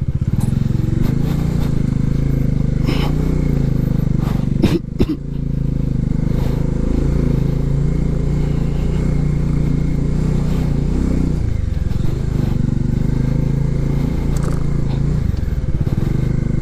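Motorcycle engine running steadily at low speed as the bike is ridden through mud, its note shifting about two-thirds of the way through. A couple of sharp knocks come about five seconds in.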